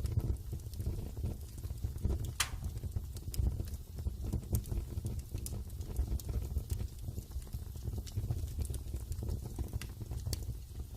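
Wood fire burning in a fireplace: a steady low rumble of flames with scattered sharp crackles and pops, one louder pop about two and a half seconds in.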